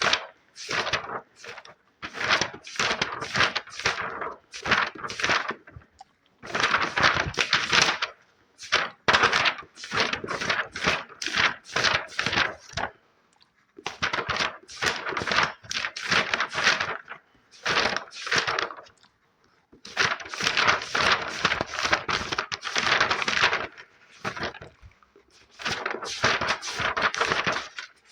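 Close-miked ASMR trigger sounds: rapid tapping and scratching on an object, in quick clusters of crisp strokes broken by short pauses.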